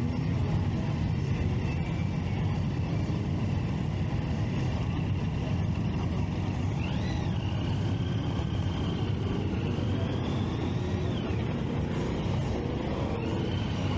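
Motorcycle riding noise: a steady low rumble of engine and wind. About halfway through a high whine rises, holds and falls away, then comes back near the end.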